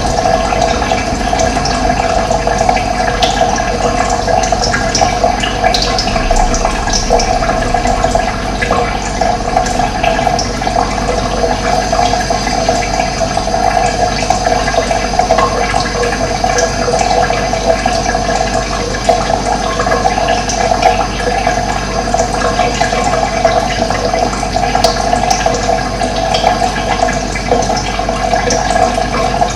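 Running water, a steady, unbroken rush, with faint bird chirps here and there.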